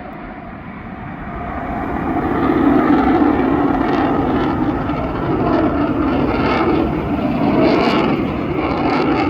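US Navy F-35C fighter jet's Pratt & Whitney F135 engine rumbling as the jet flies past, the noise swelling over the first two to three seconds and then staying loud.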